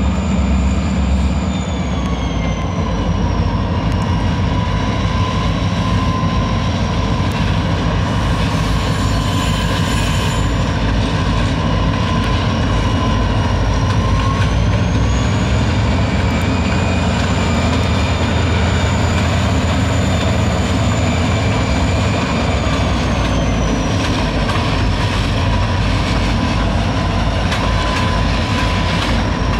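Freight train led by two diesel locomotives passing close by, their engines running with a steady heavy rumble and the wheels rolling on the rails. Over this a high thin whine falls in pitch, rises again and falls once more.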